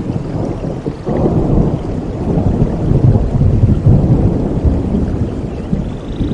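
Thunder rumbling over steady rain, coming on sharply about a second in, loudest in the middle, then slowly fading.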